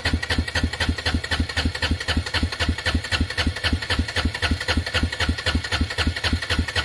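Arctic Cat 366 ATV's single-cylinder engine idling with an even chug of about six beats a second, after the machine has lost power; the owner suspects it is starving for fuel.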